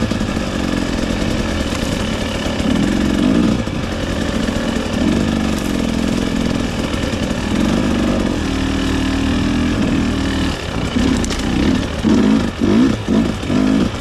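300cc two-stroke dirt bike engine running while riding, its pitch rising and falling with the throttle. From about two-thirds of the way in it revs up and down in quick repeated swings.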